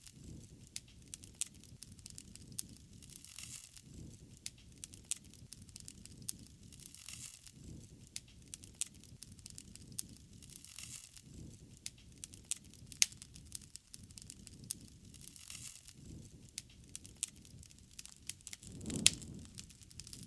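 Wood fire crackling, with irregular sharp pops and snaps over a soft low rush of flame that swells and fades every few seconds. One louder pop comes near the end.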